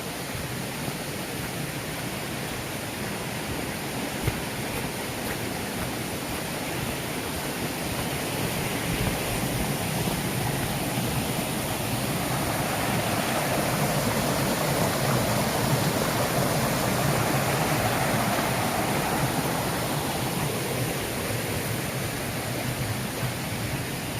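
Mountain stream running over rocks, full after rain: a steady rush of water that swells louder through the middle and eases again near the end.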